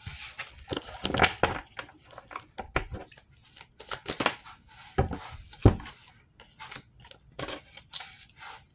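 A deck of reading cards being shuffled by hand: a run of irregular rustles, flicks and slaps of card stock.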